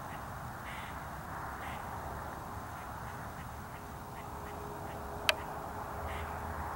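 Birds calling repeatedly, with a single sharp click about five seconds in.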